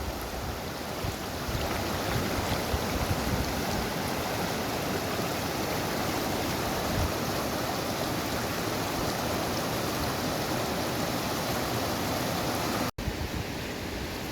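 A monsoon-swollen mountain river rushing steadily, a dense, even roar of water. The sound drops out for an instant near the end.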